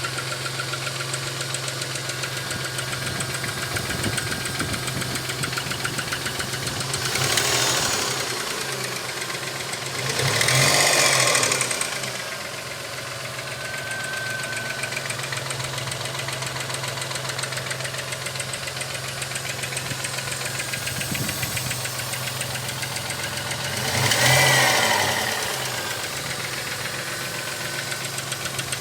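An engine idling with a fast, steady ticking or knocking, revved up and let back down three times.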